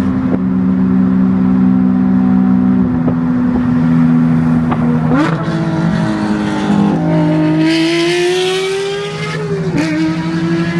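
Porsche 992 GT3's naturally aspirated 4.0-litre flat-six, heard from inside the cabin. It cruises at steady revs, then about five seconds in the pitch jumps up on a downshift and the engine climbs in a rising wail under hard acceleration. Near the end a quick upshift dips the pitch before it climbs again.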